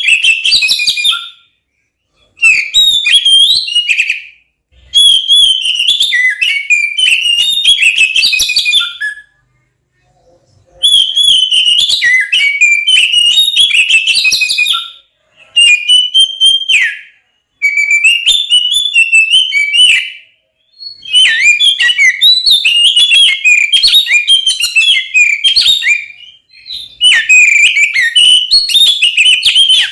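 Oriental magpie-robin (kacer) singing loudly in fast, varied, whistled phrases of a few seconds each, with short pauses between them. It is the aggressive, agitated 'fighting' song that keepers play to provoke rival kacer into singing.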